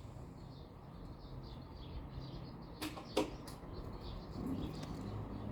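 Small birds chirping and twittering in quick, overlapping short notes over a low steady background hiss, with two sharp clicks close together about three seconds in.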